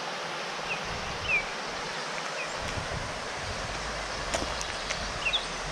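Outdoor rainforest ambience: a steady hiss with a few short, high, downward-sliding bird chirps, and a low rumble coming in about halfway.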